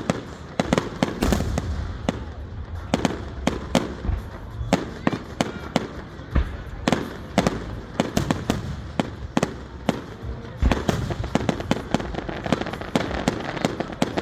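Fireworks going off in quick succession: many sharp cracks and bangs, several a second, over a low rumble.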